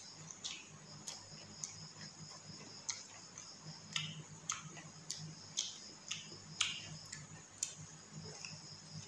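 Close-miked eating sounds: wet chewing and lip-smacking clicks at an irregular pace of about one or two a second, as rice and curry are eaten by hand, over a low steady hum.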